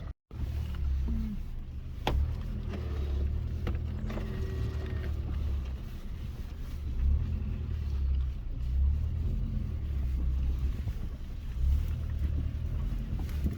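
Low, steady rumble of a Mitsubishi Pajero iO running and driving, swelling and easing in level, with a couple of sharp knocks about two and four seconds in.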